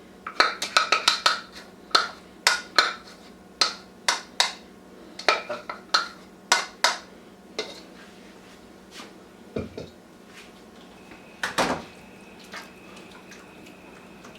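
Cooking utensil clanking and scraping against a pan while stirring food, a quick run of sharp metallic clacks that thins out about halfway, with one louder clatter near the end.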